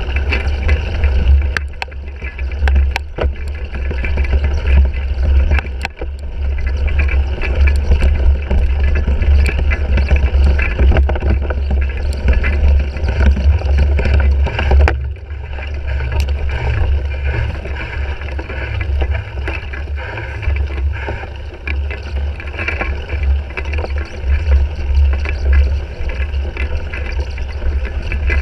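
Wind rumbling over the GoPro microphone of a cyclocross bike being raced, with rattles and sharp knocks from the bike over rough ground.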